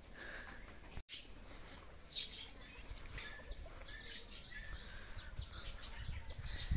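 Small birds chirping outdoors: a run of short, high notes that drop in pitch, several a second, starting about two seconds in. A low rumble runs underneath.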